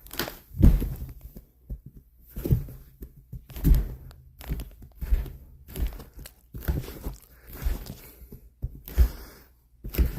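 A pit bull's rough play: a string of dull thuds at uneven intervals, with scuffling and rustling between them.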